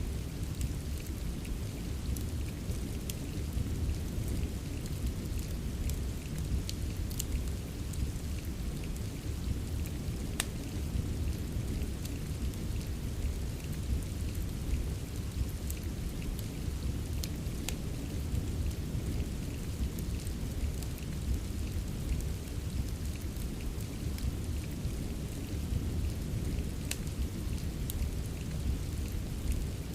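Steady rain with a low, even rumble, mixed with a wood fire in a fireplace giving scattered sharp crackles every second or two.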